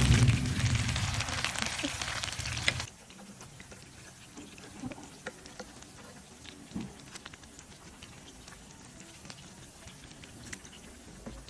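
Okoy fritters frying in hot oil, a loud steady crackling sizzle that cuts off abruptly about three seconds in. After that it is quiet, with a few faint clicks and taps.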